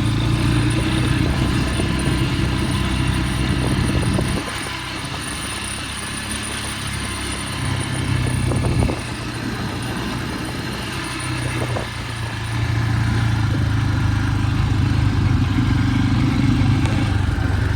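Loncin LX250GY-3 dirt bike's single-cylinder engine being ridden under throttle. It backs off about four seconds in, picks up briefly, drops again, then comes back on the gas for the last five seconds.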